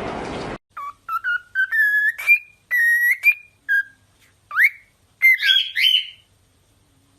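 Background music cuts off just after the start, followed by a string of short, high, whistle-like animal calls, one sweeping steeply upward about four and a half seconds in, ending about six seconds in.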